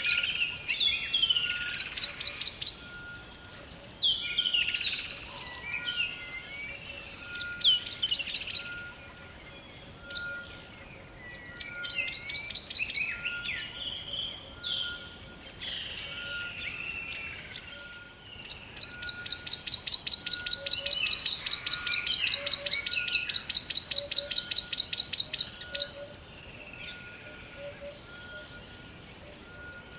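Several songbirds singing and calling together in a forest dawn-chorus style mix of chirps and whistles. Past the middle, one bird gives a long, fast trill of repeated high notes lasting several seconds, over a faint short tone repeated about once a second.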